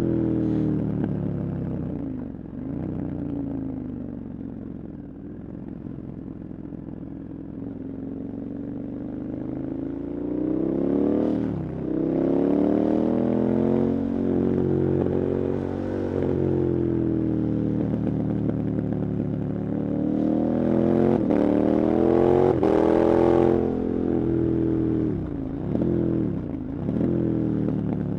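KTM 1290 Super Adventure's V-twin engine on a ridden motorcycle, pitch rising and falling with the throttle. It runs at low revs for several seconds, then pulls hard through the gears for about ten seconds, with short dips at each shift. Near the end it backs off, with two quick downshift blips.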